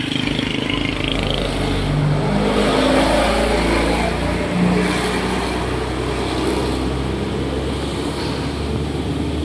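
Cement mixer truck's engine running as it goes past: a steady low drone with engine tones that swell a little about three to five seconds in.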